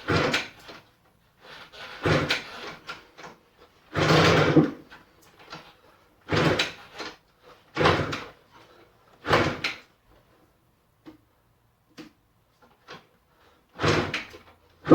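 Yamaha YZ85 two-stroke engine being kick-started over and over, each kick a short burst as it turns over without catching: about six kicks in the first ten seconds, a pause, then two more near the end. It does not fire with the choke left on.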